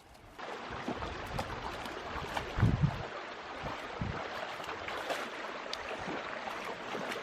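Water rushing and splashing, with a few dull thuds about two and a half seconds in.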